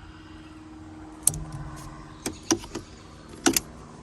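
A handful of sharp clicks and knocks of hard plastic and metal as a car's headlight switch is worked out of its dash housing: one click, a quick group of three, then a double click near the end, over a low steady hum.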